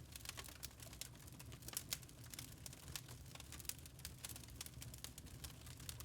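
Wood burning in a log fire, crackling with a quick, irregular run of small sharp snaps and pops over a low, steady rumble.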